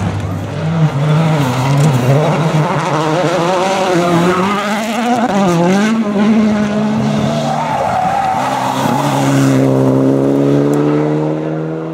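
Rally car engine with revs rising and falling through a corner, then climbing steadily as it accelerates hard near the end.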